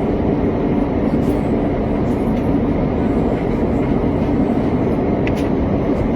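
Steady airliner cabin noise in flight: an even low roar of engines and airflow, with a faint click about five seconds in.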